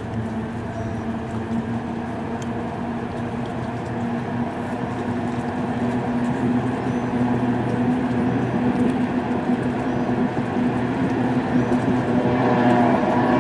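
A racing boat's engine running at steady pitch out on the water, its drone growing gradually louder as the boat comes closer.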